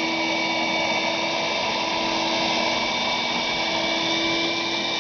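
Sears Craftsman 5 hp wet/dry shop vac running steadily, a constant whine over the rush of air drawn through its floor nozzle.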